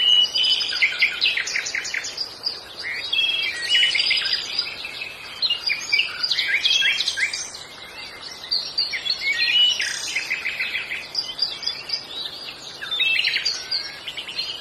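Small cage birds chirping in quick bursts of high, overlapping chirps and short trills, with brief lulls between bursts.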